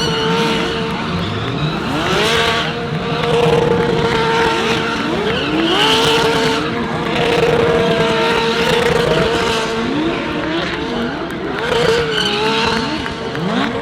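Several GT3 race car engines revving up and down at once, their pitch repeatedly rising and falling.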